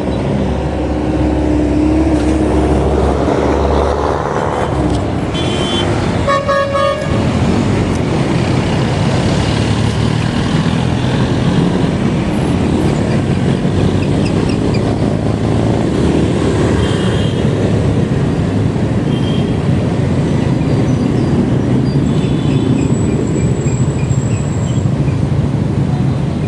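Steady road and traffic noise heard from a moving bicycle, with a vehicle horn honking once for about a second roughly six seconds in.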